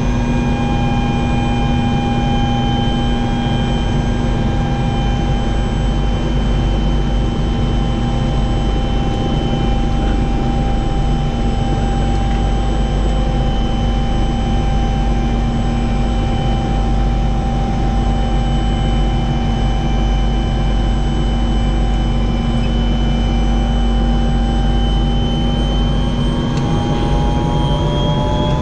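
Helicopter turbine engine and rotor running steadily: a steady whine of several tones over a heavy low rumble. The whine rises in pitch over the last few seconds.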